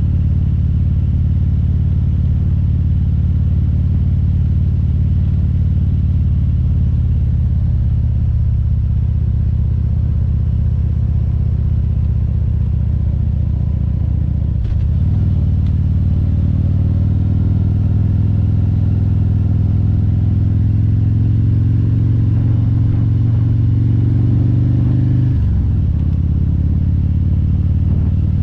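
Harley-Davidson Road Glide's V-twin engine running steadily under load. There is a brief break about halfway, then the revs climb slowly and drop sharply near the end, as at a gear change.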